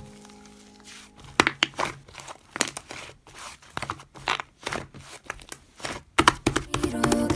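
Slime being squished and pressed by hand, making an irregular run of crisp crackling clicks and pops. A music note fades out at the start and background music comes back in near the end.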